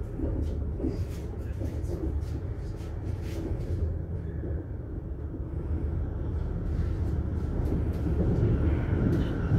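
Inside a moving Südostbahn passenger train: a steady low rumble of the carriage running on the rails, with faint clicks and rattles. It grows a little louder near the end.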